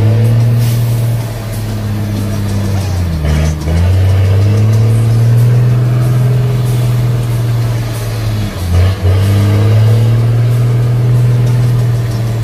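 Heavy truck diesel engine pulling hard under load, its note steady, with two brief dips about three and eight and a half seconds in as gears are changed.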